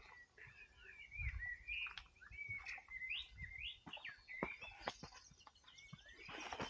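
Small songbirds chirping and warbling faintly in quick rising and falling notes, with a few soft clicks among them.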